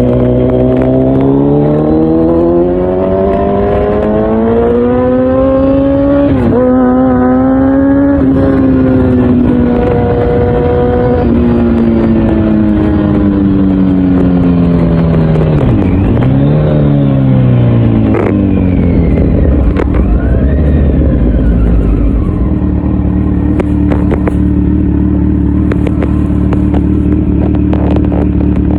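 Kawasaki Z900's inline-four engine through an Akrapovic full exhaust system, accelerating hard up through the gears with short breaks at the shifts, then slowing as the revs fall, with a brief rise and fall again past the middle. It settles to a steady low idle for the last several seconds.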